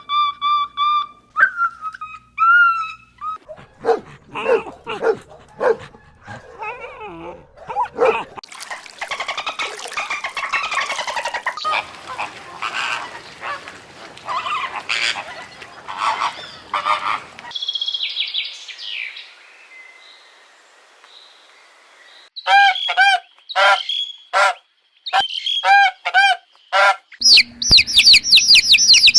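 A string of separate animal-call recordings. A long howl at the start gives way to scattered calls, then a dense chorus of many birds calling together. A run of short, evenly repeated honk-like bird calls follows, and a different animal's calls begin near the end.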